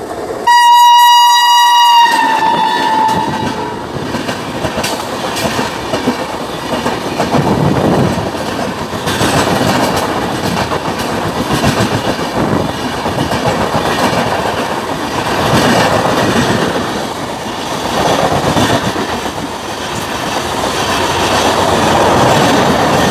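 An Indian Railways electric locomotive sounds its horn, a loud, shrill blast of about three seconds starting half a second in. After it, express coaches rush past close by at speed, with a steady rolling roar and a rhythmic clickety-clack of wheels over rail joints that swells and fades as each coach goes by.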